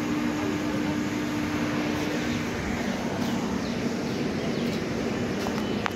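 Passenger train at a station platform: a steady rumble with a low hum that drops slightly in pitch about two and a half seconds in.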